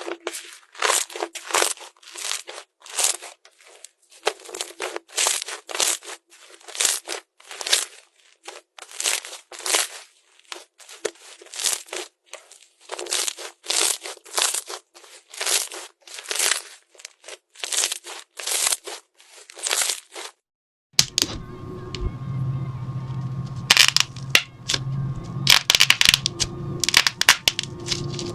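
Slime being squeezed and pressed by hand, giving short crackling bursts two or three times a second. About two-thirds of the way through it cuts to another slime recording, with a low hum behind sharper clicks and pops.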